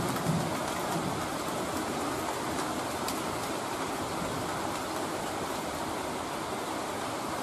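Heavy rain falling steadily: an even hiss of a downpour, with a few faint drop ticks.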